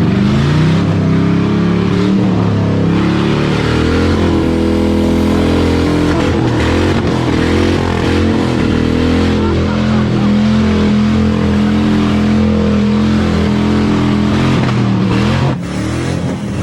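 Ford Crown Victoria V8 engine running and being revved, its pitch rising and falling again and again; it drops off about a second before the end.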